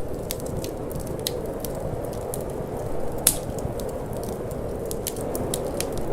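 Wood fire burning in a fireplace, crackling with irregular sharp snaps and one louder pop about three seconds in, over a steady low rushing sound.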